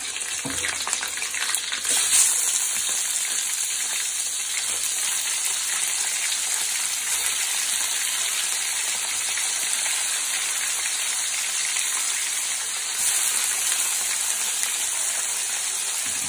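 Raw prawns sizzling in hot oil with ginger and garlic in a metal kadai. The sizzle jumps up as the prawns go in, peaks about two seconds in, then runs on as a steady frying hiss.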